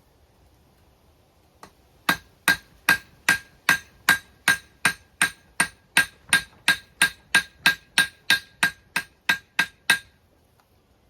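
Blacksmith's hammer striking hot steel on an anvil to forge-weld a chain link. A steady run of about twenty blows, roughly two and a half a second, each with a short metallic ring, stopping near the end.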